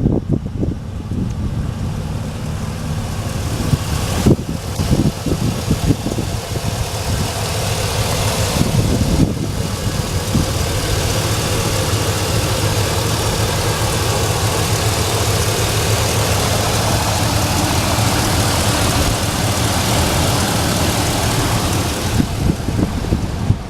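2000 Chevrolet pickup truck engine idling steadily. A broad hiss builds over it from about ten seconds in and drops away shortly before the end.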